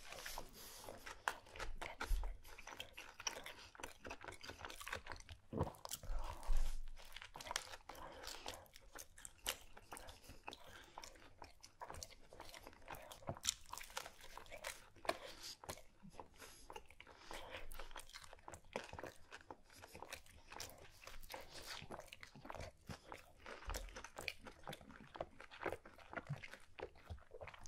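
A person biting into and chewing a large sesame-seed sub sandwich, with dense crunching of the crusty bread and filling and many small wet clicks of chewing throughout.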